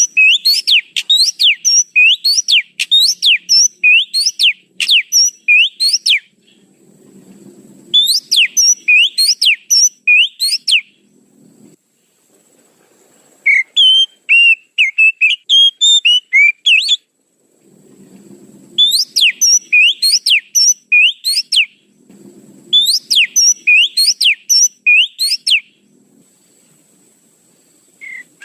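Oriental magpie-robin (kacer) lure call: phrases of rapid, sharp whistled notes repeated many times over, each phrase lasting a few seconds with short pauses between, and one more varied warbling phrase in the middle.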